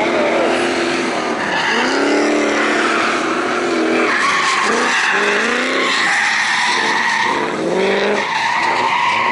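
Drift cars sliding on track: engines revving up and down several times over a constant squeal of tyres.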